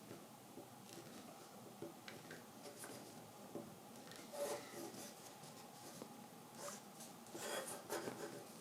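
Knife tip scoring lines into a wild cherry coffee scoop for kolrosing: faint, scratchy cuts and small clicks of the blade in the wood. A louder run of strokes comes about halfway through and again near the end.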